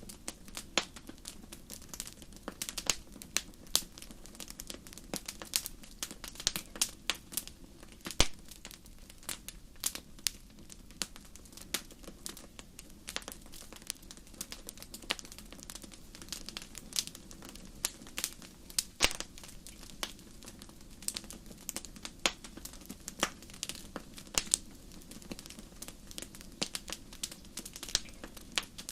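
Wood fire crackling: irregular sharp pops and snaps, a few a second, over a steady low rush of burning.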